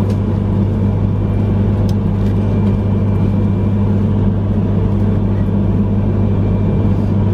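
Steady running noise heard inside the cabin of a moving E3-series Yamagata Shinkansen train: a constant low hum over an even rumble, with a few faint clicks.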